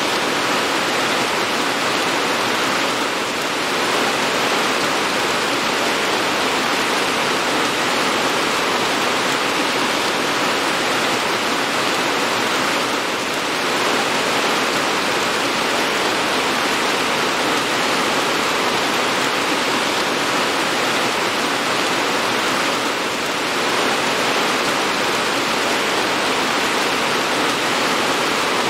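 Steady heavy rain, a dense even hiss with no single drops standing out, dipping slightly in level about every ten seconds.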